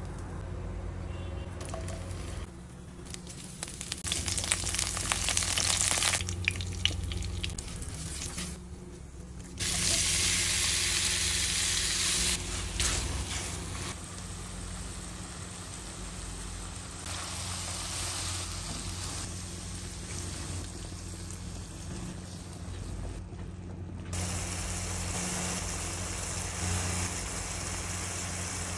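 Prawns frying in hot oil in a pan, a sizzle that comes and goes in level as the shots change, over a steady low hum.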